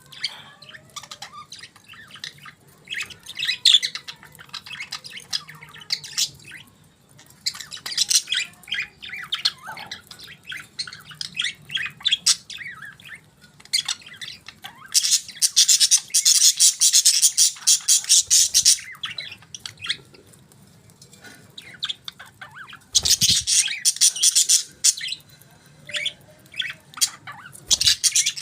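Budgerigars chirping and chattering: rapid, high, scratchy warbles and chirps, with two longer spells of dense, loud chattering, one at about 15–19 seconds and a shorter one at about 23–25 seconds. A brief low thump comes about 23 seconds in.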